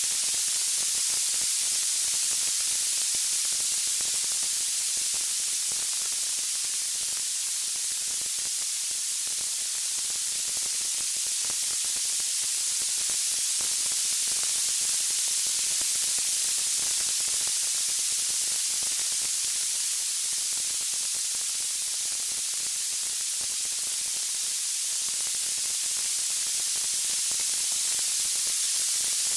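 Steady white-noise hiss, strongest in the high frequencies and even in level throughout, with no distinct crackles or pops.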